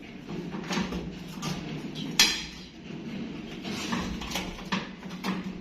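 Clicks and knocks of hard parts being handled as a washing machine's motor capacitor is fitted back into its mount, with one sharper knock about two seconds in, over a steady low hum.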